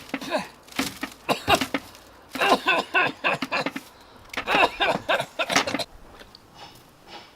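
A person's voice in several short wordless vocal bursts, with pauses between them.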